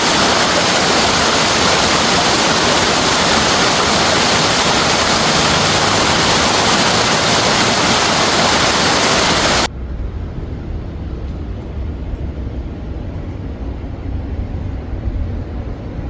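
Waterfall's loud, steady rush of falling water. About ten seconds in it cuts off abruptly and gives way to the low rumble of a moving vehicle.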